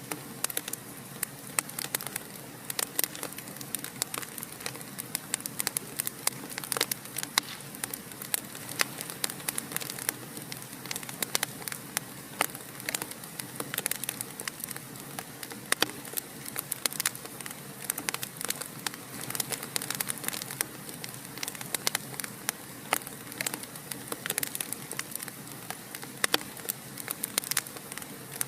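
Wood fire burning in a fireplace, crackling steadily with frequent sharp, irregular pops and snaps over a soft hiss.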